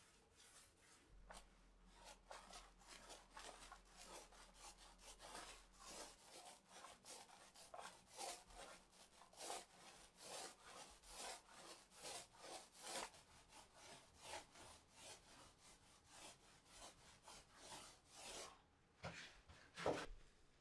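Faint rubbing or scraping strokes by hand on a surface, about two a second, with a couple of sharper knocks near the end.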